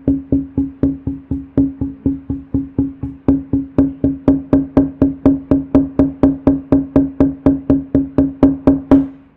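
A fast, even series of short pitched knocks, about four a second, all on the same low note; they get louder about three seconds in and stop just before the end.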